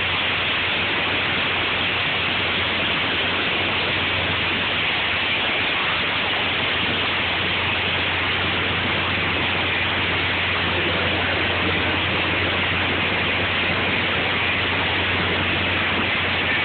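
Heavy rain and hail pouring down in a steady, dense hiss, with no single strikes standing out.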